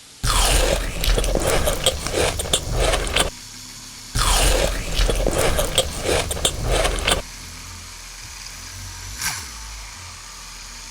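Crunchy food being bitten and chewed close to the microphone, in two bouts of about three seconds each.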